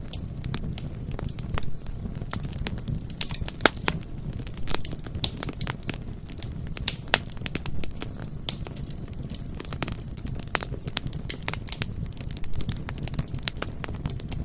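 Bonfire burning, with irregular sharp crackles and pops from the wood over a steady low rumble of the flames.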